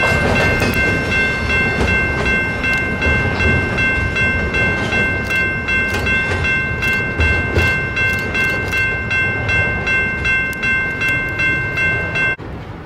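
Double-stack intermodal freight cars rolling over a steel bridge: a steady rumble with many sharp clicks of wheels over rail joints, and a steady high-pitched ringing tone over it. The sound cuts off abruptly near the end.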